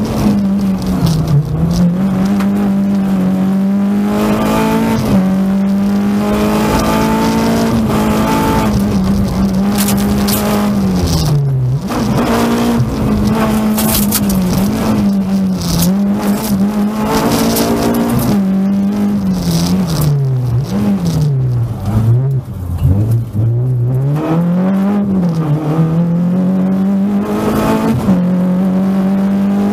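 Renault Clio 16V rally car's engine heard from inside the cockpit, driven hard: the revs climb and drop over and over through the gear changes. About a third of the way in, and again about three quarters through, the revs fall steeply and swing up and down a few times.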